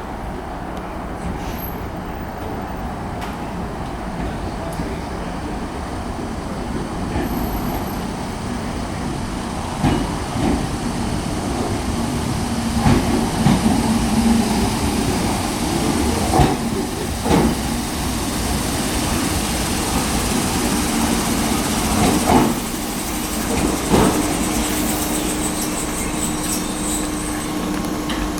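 Class 313 electric multiple unit train moving along the platform: a steady rumble that grows louder, with a string of wheel knocks over rail joints in the middle and a steady electric hum joining in during the second half.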